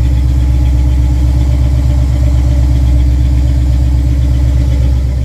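Chevy C10 pickup's engine idling loud and steady through new Jones Full Bore single-chamber mufflers and turn-down tailpipes, with an even, rapid exhaust pulse.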